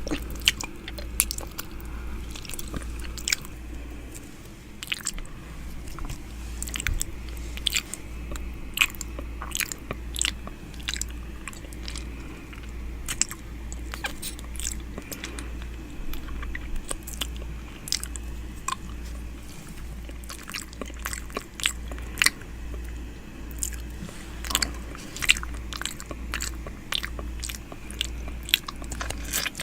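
ASMR ear eating: wet mouth sounds made right against a microphone's ear, irregular clicks, smacks and nibbles over a low steady hum.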